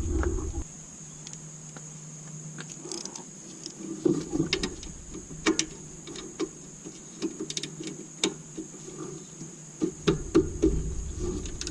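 Hand tools clicking and knocking on metal engine parts at irregular intervals, with a steady faint high-pitched whine behind them.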